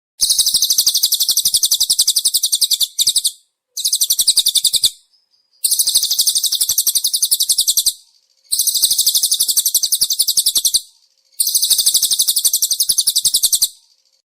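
Songbird 'speed' call used as a masteran tutor sound: a very fast, high-pitched run of repeated notes, given in about five bursts of two to three seconds each with short pauses between.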